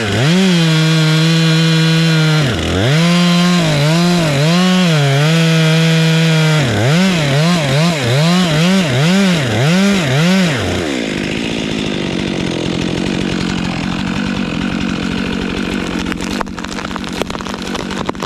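Two-stroke chainsaw running at high revs while cutting, its pitch dipping and recovering again and again as the chain loads up in the wood, with quick dips about twice a second near the middle. About eleven seconds in, the high engine note drops away and a steadier, rougher running sound follows.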